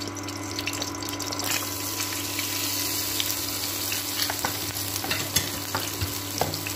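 Chopped onions and peppers sizzling in hot oil in a stainless steel pan as frying starts: the sizzle comes in strongly about a second and a half in and holds, with scattered pops.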